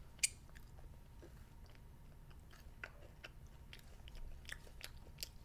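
Faint chewing of candy, with scattered small, sharp mouth clicks at irregular intervals, the strongest about a quarter second in.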